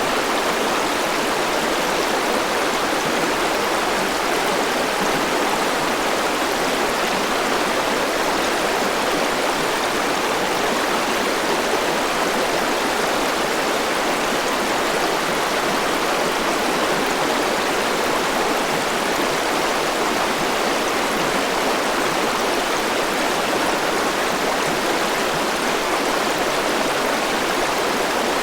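Mountain river rushing over rocks in a steady, unbroken flow.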